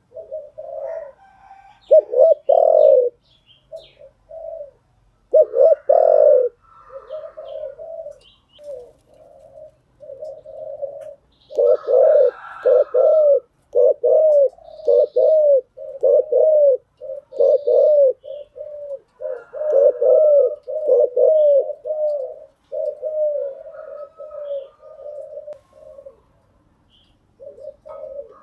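Spotted dove cooing over and over: phrase after phrase of short, arched coos, with a few louder notes among them.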